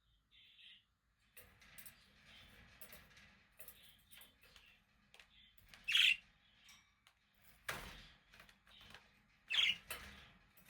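Budgerigars chirping and warbling in a busy, overlapping chatter that starts about a second and a half in, with two louder sharp chirps past the middle and a short knock between them.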